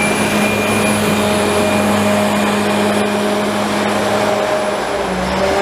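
A heavy vehicle's engine running steadily, with a constant low hum and a high whine over it.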